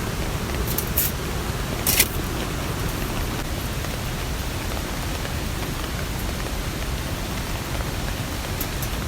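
Steady rain falling, an even hiss, with a few sharp drop ticks; the loudest tick comes about two seconds in.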